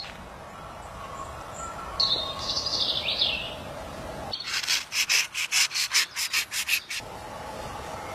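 Small craft air compressor running with a steady hum. Falling bird chirps sound about two seconds in, then a rapid run of about a dozen sharp pulses.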